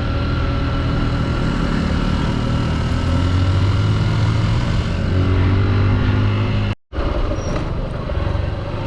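Honda XR150 single-cylinder motorcycle engine running steadily while climbing a mountain road, with wind and road noise. The sound drops out suddenly for a split second near the end, then carries on.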